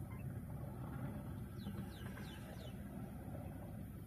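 Steady low rumble of a car engine idling, heard from inside the stopped car, while a bird gives four quick falling chirps about halfway through.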